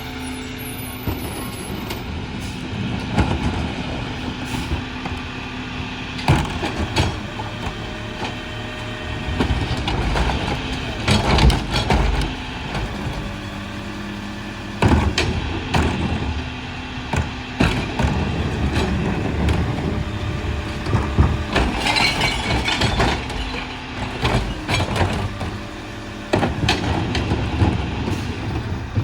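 Freightliner garbage truck with a Heil Formula 4000 rear-loader body running at a steady idle, with repeated clanks and bangs from the rear loader working and a burst of air hiss about three-quarters of the way through.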